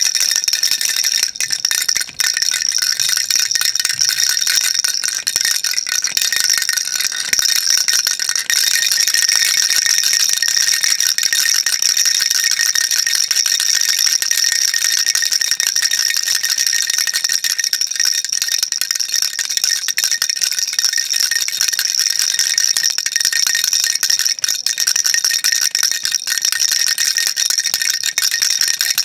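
Baby rattle shaken continuously, its beads making a dense, steady, bright rattle, with a brief break about two seconds in.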